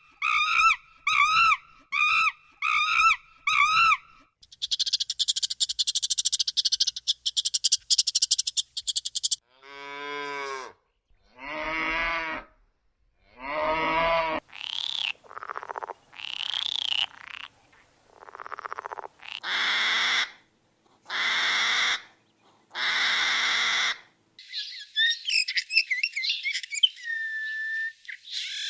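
A run of different animal calls, one after another: six short calls, then a few seconds of rapid high trilling, then a series of separate longer calls, some falling and some rising in pitch, ending with quick high chirps.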